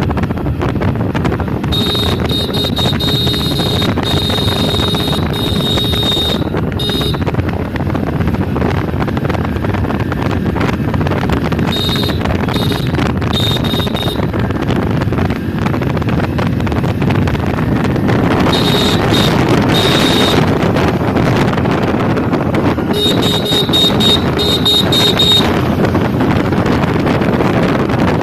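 Hero Splendor Plus Xtec motorcycle's 97 cc single-cylinder engine running while riding, with wind rush on the microphone. Its horn is beeped in four clusters of short repeated beeps.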